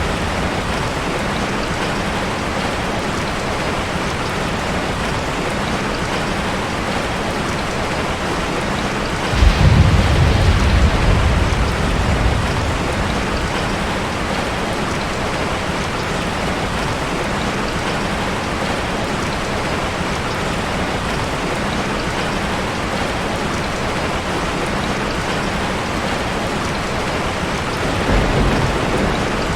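Steady rain falling. A sudden low rumble comes about nine seconds in and fades over the next few seconds, and a smaller one comes near the end.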